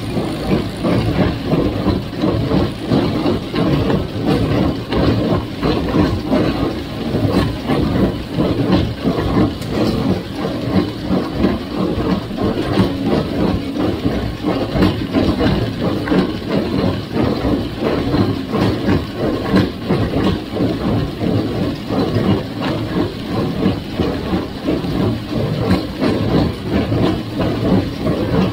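A 1958 Farmall 350 tractor's gas engine running steadily under load while its John Deere 348 square baler works, making a continuous mechanical din that pulses quickly throughout.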